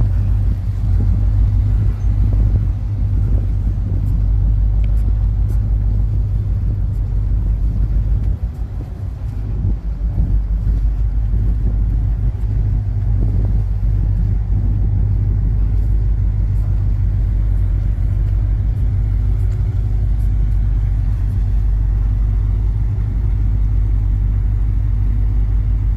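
Steady low engine rumble of the Super Jet high-speed passenger craft idling at the pier, with a brief dip in level about a third of the way in.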